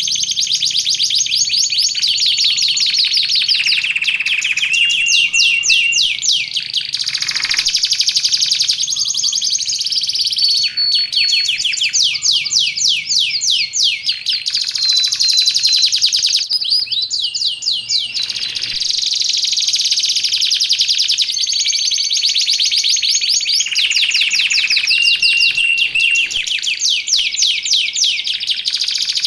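Canary singing without pause in fast, rolling trills, broken now and then by short held whistled notes.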